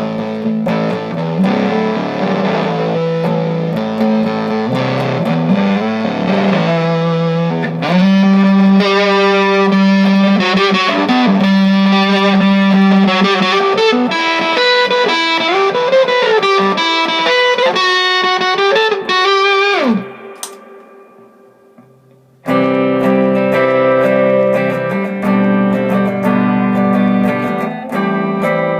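Electric guitar, a Gibson Les Paul played through an effects pedalboard into a Vox AC15 valve amp, playing chords and melodic lines. Near the two-thirds mark the pitch slides down and the playing stops for about two seconds while the note rings out. Then the playing starts again.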